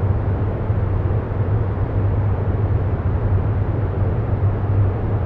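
Steady low rumbling background noise with a constant hum around 100 Hz and no rhythm or distinct events: a continuous ambient sound bed.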